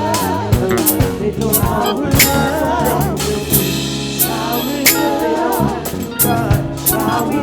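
Live gospel band music: a drum kit hitting accents over sustained low notes while a singer's voice wavers through runs.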